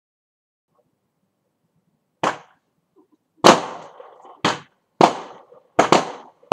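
Fireworks going off: a string of loud, sharp bangs, about six in the last four seconds at uneven spacing, each with a short echoing tail.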